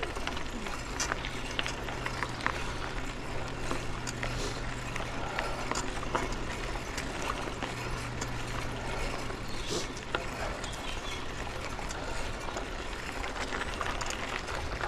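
Mountain bike on a woodland trail: the rear hub's freewheel ticks and the bike rattles, with many small clicks over a steady low rumble.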